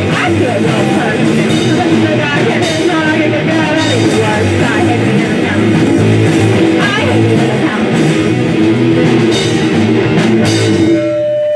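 Live rock band playing: electric guitar, drum kit and singing. The band stops abruptly near the end, leaving one steady tone ringing.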